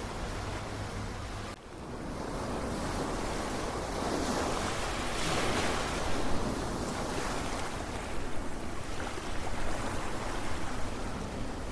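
Ocean waves washing ashore, one swelling up and breaking about midway, after the sound drops out briefly near the start.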